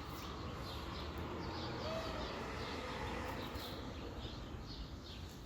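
Small birds chirping repeatedly in the background over a steady low hum.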